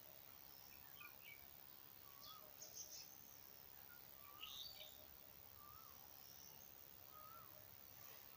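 Faint birdsong: one bird repeating a short whistled note that rises and falls, about once a second, with a few brief higher chirps from other birds.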